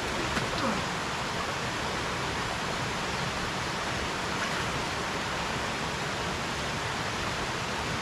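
Steady rush of flowing stream water, an even hiss without breaks.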